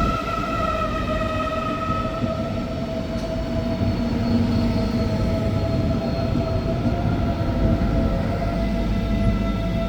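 A train running past with a steady whine of several tones over a low rumble; the tones fall a little in pitch in the first couple of seconds, then hold steady.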